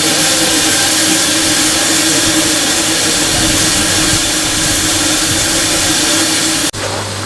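Steam hissing steadily and loudly in the cab of steam locomotive Ww 644. It cuts off abruptly near the end, leaving a lower, quieter steady hum.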